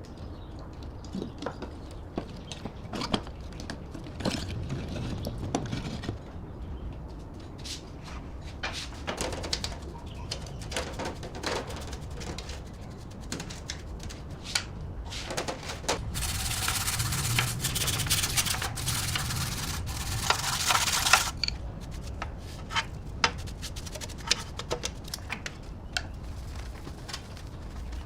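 Hand work on metal parts: scattered clicks, taps and scraping, with a stretch of steady hiss from about 16 to 21 seconds in.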